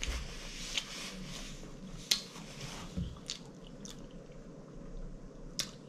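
Close-miked mouth sounds of a person finishing a mouthful: soft chewing with a few sharp lip smacks. A paper napkin is rubbed across the mouth at the start.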